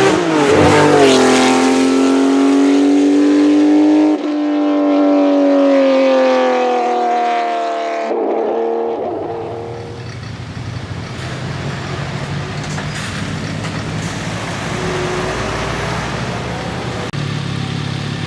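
Historic racing car accelerating hard up a hillclimb, its engine note climbing through the gears with shifts about half a second in and at about four and eight seconds. It then fades away, leaving a low background hum.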